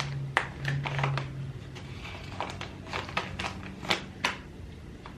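Plant shipping packaging being unwrapped by hand: irregular crinkling and sharp crackles of wrapping, the loudest snaps about a second apart near the end.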